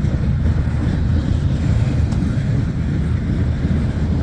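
Freight train rolling past close by: a loud, steady low rumble of steel wheels on the rails.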